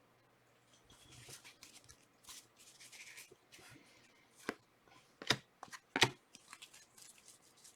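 Trading cards being handled and slid against one another as a pack is sorted through: soft swishes, then a few sharp clicks and taps of the cards.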